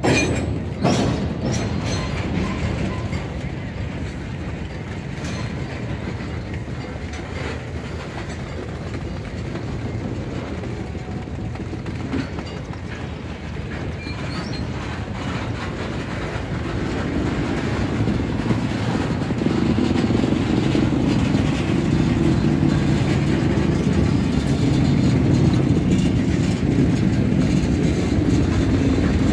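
Freight train boxcars rolling past at close range: a steady rumble of steel wheels on the rails, with sharp clicks and knocks. It grows louder about two-thirds of the way through.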